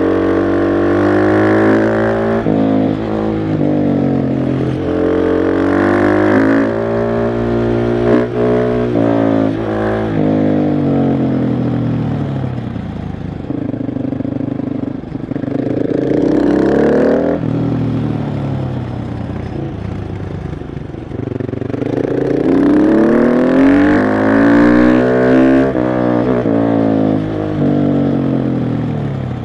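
KTM 690 SMC R's single-cylinder engine under way, its pitch climbing several times as it accelerates and dropping sharply each time the throttle closes.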